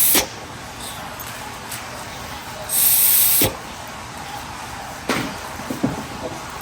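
Short hissing bursts of aerosol spray, the end of one right at the start and another lasting about a second near three seconds in, followed by a few light clicks of parts being handled.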